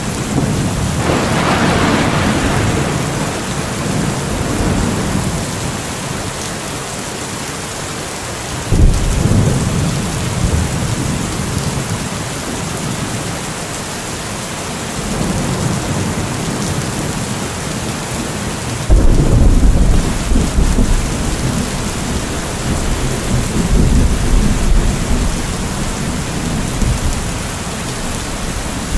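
Thunderstorm: steady rain hissing with rolling thunder. Two sudden low thunderclaps, about nine and nineteen seconds in, each rumble on for several seconds.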